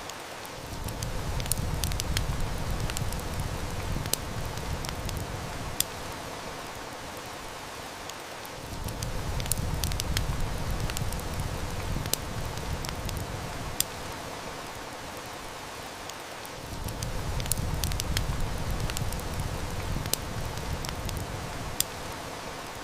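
Heavy rain hissing steadily, with the sharp snaps and crackles of a burning wood fire scattered through it. A low rumble swells up three times, lasting several seconds each time.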